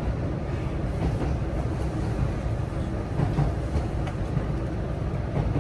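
Interior ride noise of a JR West 323 series electric commuter train running: a steady low rumble of wheels on rail heard inside the passenger car.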